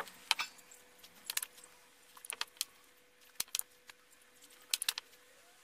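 Scattered small sharp clicks and crackles in irregular clusters while a soldering iron tins the terminals of lithium-ion 18650 cells with solder.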